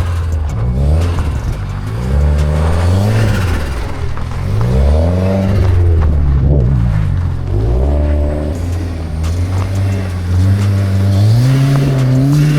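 Car engine revving up and down in repeated swells, as in drifting, then climbing and holding at higher revs near the end.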